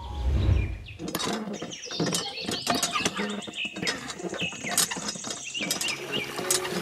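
Small birds chirping, many quick falling chirps one after another, over scattered sharp clicks and taps. A low thump comes right at the start.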